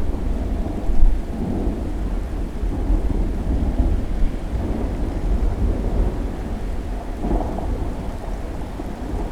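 Thunderstorm: thunder rumbling low and continuously over steady rain, with a louder swell about a second in.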